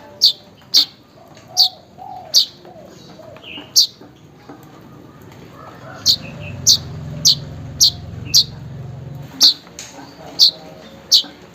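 Manyar (weaver bird) calling: a run of loud, short, sharp chirps that sweep down in pitch, about one to two a second, with a pause of about two seconds near the middle. Fainter, lower bird calls go on underneath, and a low rumble comes in for a few seconds past the middle.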